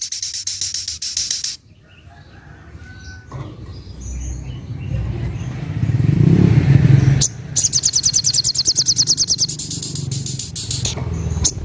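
A sogok ontong (spiderhunter) sings its rapid trill of fast, evenly repeated high notes, about eight a second. The trill stops about a second and a half in and starts again about halfway through. Between the two trills a low engine rumble swells, loudest just before the song resumes.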